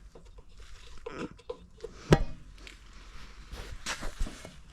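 Handling clatter around a snowblower: scattered light knocks and rustles, with one sharp clack about two seconds in.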